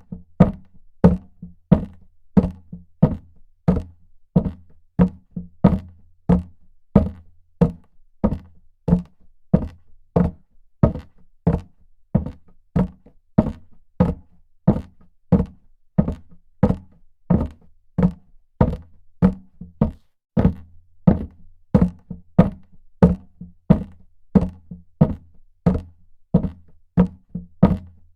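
Footsteps walking at an even pace on a hard floor, about two steps a second.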